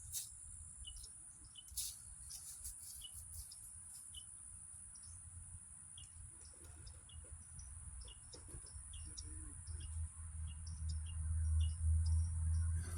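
Small birds chirping in short, repeated notes over a steady high-pitched insect drone; a low rumble builds up over the last few seconds.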